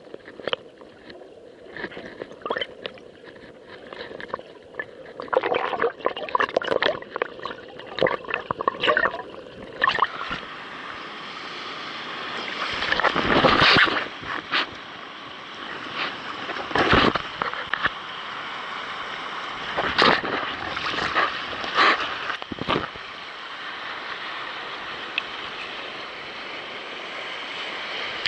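Sea water sloshing and slapping against a kayak's hull with repeated sharp splashes, joined about a third of the way in by a steady rush of waves breaking around rocks, loudest near the middle.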